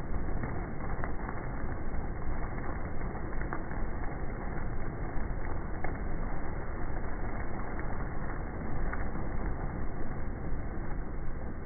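Heavy thunderstorm rain and wind: a steady, dense rush of noise with a few scattered sharp taps. It is played in slow motion, so it sounds lower and duller than real time.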